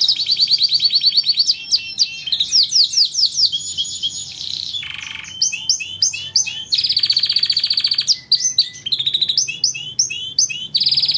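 Domestic canary singing a continuous song of rapid trills and repeated chirping phrases, the notes coming many times a second and changing from one run to the next.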